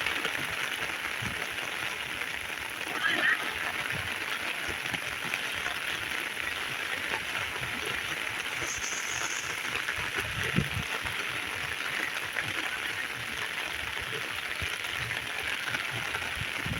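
Heavy rain falling steadily, a dense even hiss of drops, with a brief louder patch about three seconds in and a single sharp knock about ten seconds in.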